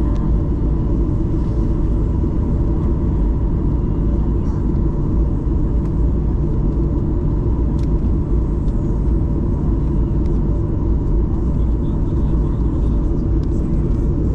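Steady low rumble of a Boeing 737-800's CFM56 jet engines and rushing air, heard inside the passenger cabin, with a faint steady hum on top.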